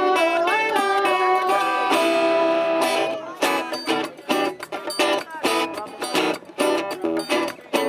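Guitar music: held, bending notes for about three seconds, then a fast run of sharply plucked or strummed chords.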